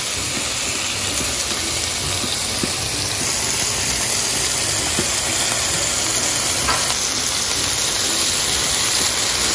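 Chicken skewers sizzling in oil on a hot stovetop grill pan: a steady frying hiss that grows a little louder as more oil is brushed onto the pan.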